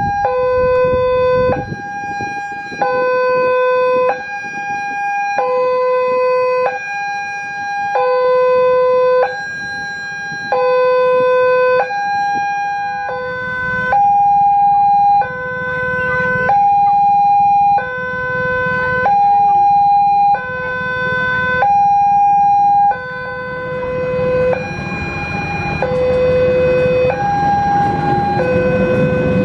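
Railway level-crossing warning alarm sounding, a steady two-tone hi-lo signal whose tones alternate about every 0.8 seconds, warning that a train is approaching. A low rumble builds under it in the last few seconds.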